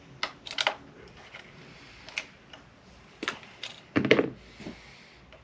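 Cable ties being snipped with cutters while plastic parts of an RC truck are handled: a scattering of sharp clicks and snips. The loudest is a heavier clunk about four seconds in.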